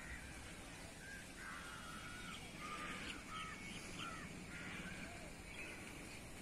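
Birds calling: a string of short, repeated calls, fairly faint, over a low background rumble.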